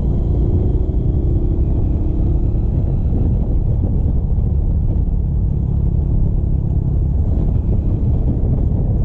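Motorcycle engine running at a steady riding speed, mostly buried under a steady low rumble.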